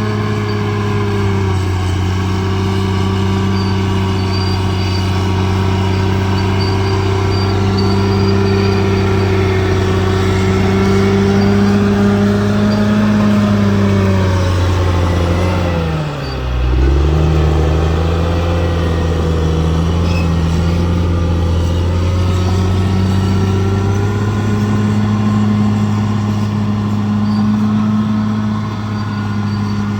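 Bulldozer's diesel engine running steadily. About sixteen seconds in, its pitch drops sharply and then climbs back.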